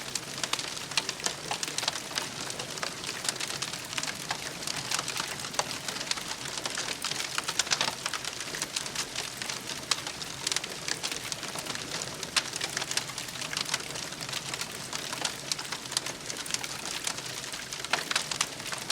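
Campfire crackling: a continuous run of many small pops and snaps over a steady hiss.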